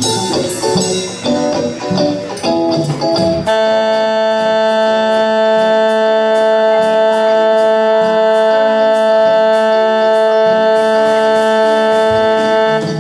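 A Campursari band playing live: a few seconds of changing notes with percussion, then one note held steady for about nine seconds over a light ticking beat.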